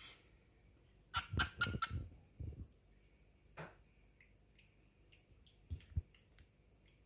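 Knocks and taps from a cockatiel moving about its cage: a quick cluster about a second in, then a few single taps later, with faint short chirps in among the first cluster.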